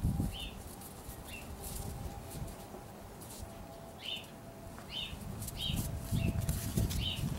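Small birds chirping, short high calls repeated every second or so, over low scuffling and bumping that grows louder in the second half as puppies wrestle on a plush toy.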